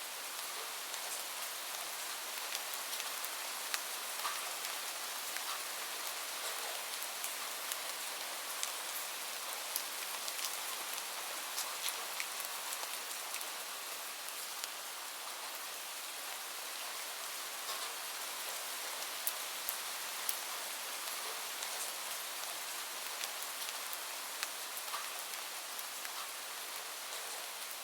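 Steady rain falling, an even hiss, with single drops landing close by as scattered sharp ticks.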